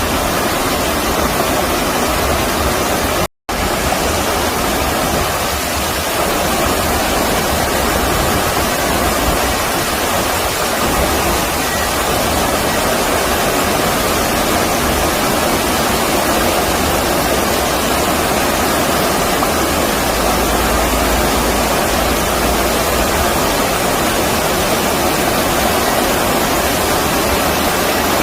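Stream water rushing in a steady, even, loud wash. It cuts out to silence for a split second about three seconds in.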